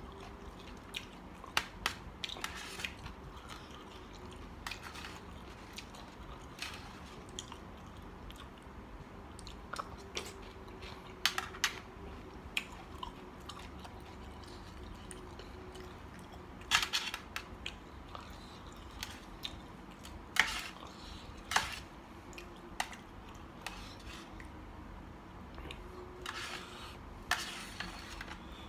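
A person eating a spicy mixed seafood salad of squid and shrimp: irregular chewing and crunching, with scattered sharp clicks and clatters.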